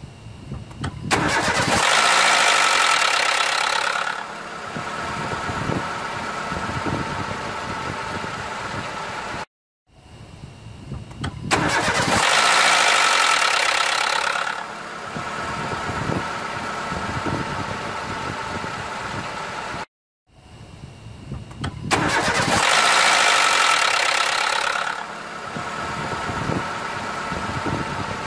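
Renault Mégane petrol engine cold-starting, three times about ten seconds apart. Each time, right after it catches, a loud noisy sound with a steady high whine lasts about three seconds, then settles into a quieter, even idle. This loud spell just after the start is the strange cold-start noise the car is being checked for.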